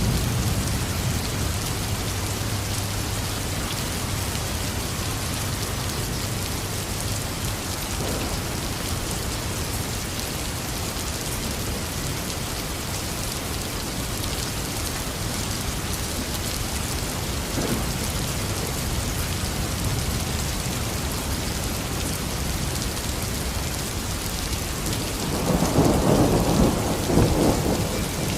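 Heavy rain falling steadily in a thunderstorm. A low thunder rumble fades over the first few seconds. A louder rumble of thunder lasting about three seconds comes near the end.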